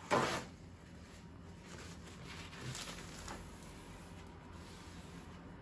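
Containers and packets being handled on a table: a short, loud knock or rustle just after the start, then a few faint taps and rustles around the middle.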